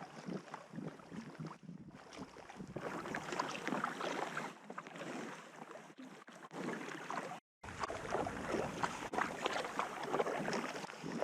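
Water splashing and sloshing around a packraft being paddled down a fast river, with wind rumbling on the microphone. The sound cuts out briefly about seven and a half seconds in.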